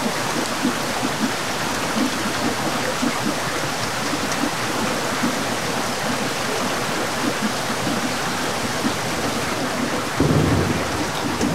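Steady heavy rain hissing, with a low rumble about ten seconds in.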